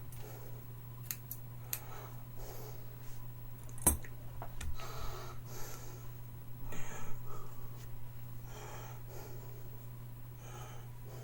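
Scissors clicking while cutting hair, with several sharp snips, the loudest about four seconds in. Between them a person breathes audibly through the nose. A steady low hum runs underneath.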